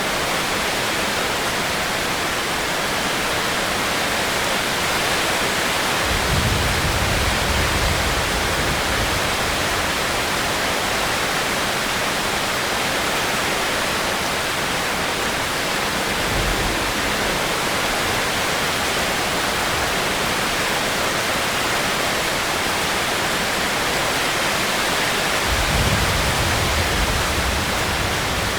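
Steady rain hiss, with low rumbles rising under it about six seconds in, briefly around the middle, and again near the end.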